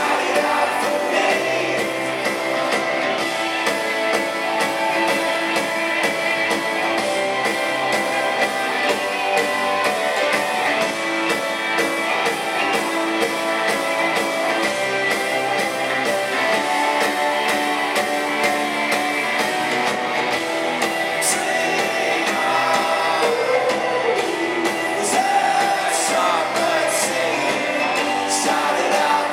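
Live rock band playing: strummed guitars, drums and singing, heard through a concert-hall audience recording.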